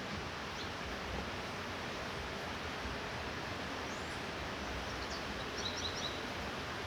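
Steady light rainfall hissing evenly. A few faint, high, short chirps come near the end.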